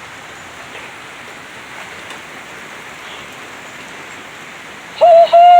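Heavy rain falling steadily in a thunderstorm. Near the end, a loud whooping "hoo-hoo!" gliding down in pitch.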